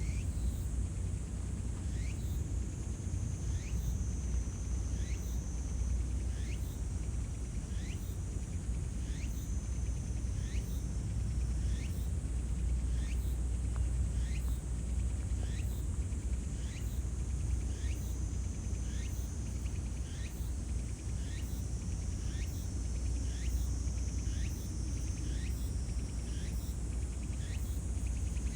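Outdoor ambience: a steady high insect trill with a short rising chirp repeating about once a second, over a continuous low rumble.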